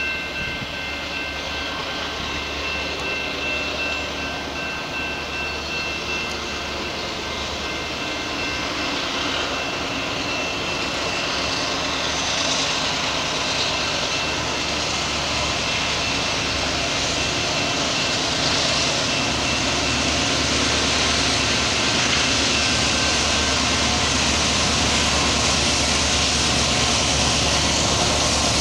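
Steady rumble of an approaching freight train led by two Canadian Pacific GE AC4400CW diesel locomotives, growing gradually louder as it nears. A few faint, steady high tones sound in the first half and fade out.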